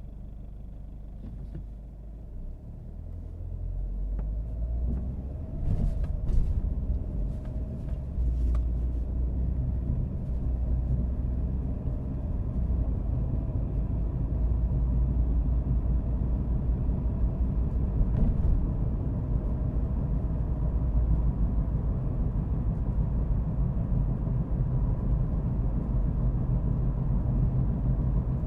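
Car driving, with a low engine and road rumble that builds as it gathers speed over the first dozen seconds, then runs steadily. A few sharp clicks or knocks come about a quarter of the way in, and one more just past halfway.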